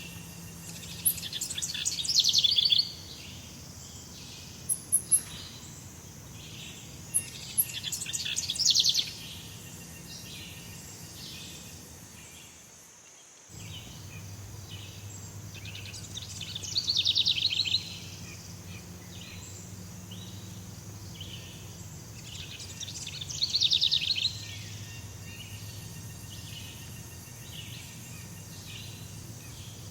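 Jungle ambience: a bird sings a loud phrase of rapid notes four times, about every seven seconds, with a few short high chirps between, over a steady pulsing chorus of insects. The background briefly dips and cuts out about halfway through.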